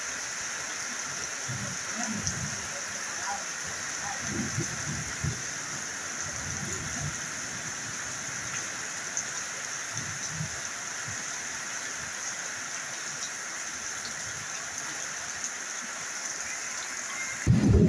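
Steady rain falling on corrugated metal roofs, with water running off the roof edges, making an even hiss. A few brief low rumbles come through now and then.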